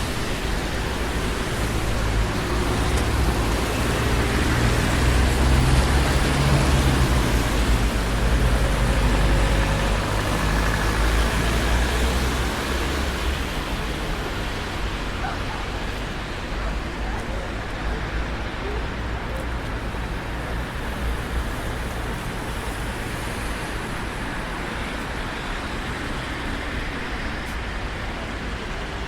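Traffic on a busy city street: a continuous wash of tyre and engine noise, with a louder low rumble swelling and fading in the first half as heavy vehicles pass, then settling to a steadier hiss of passing cars.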